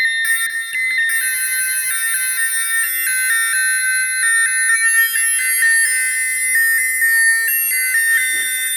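Synthesized bell tones from a Make Noise Spectraphon in a Eurorack modular patch: many steady high tones ringing together. A brighter, higher layer comes in a fraction of a second in, a second bell voice from the Spectraphon's other side through the high-pass outputs of a QPAS filter, and its highest tones glide slowly upward midway.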